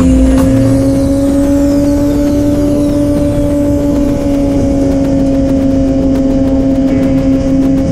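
Sport motorcycle engine running at a steady high pitch while cruising at highway speed, with wind rushing over the microphone.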